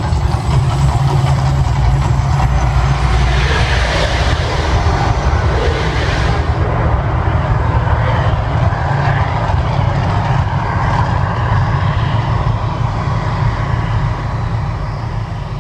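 Loud, steady deep rumble of a simulated volcano eruption show, with a rushing hiss that swells about three seconds in and drops off around six seconds.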